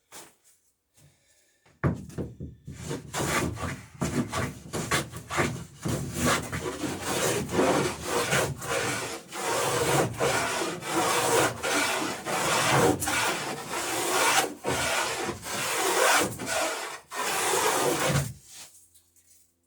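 Hand plane shaving a bevel along the edge of a wooden boat plank, in quick repeated strokes that start about two seconds in and stop shortly before the end.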